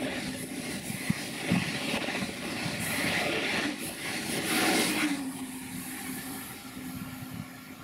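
TGV high-speed train passing at speed: a steady rush of wheels and air with a steady hum underneath. It is loudest as the rear power car goes by about four to five seconds in, then fades as the train goes away.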